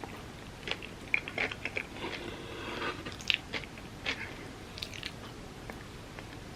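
Close-up eating sounds of Dubai chocolate crepes: bites and chewing, with short crisp crunches and clicks scattered through, a cluster about a second in and the loudest about halfway.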